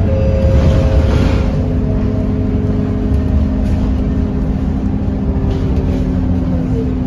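Scania K230UB single-deck city bus running, with its five-cylinder diesel engine rumbling under several steady whines. A brief hiss comes about a second in, and one whine falls in pitch near the end.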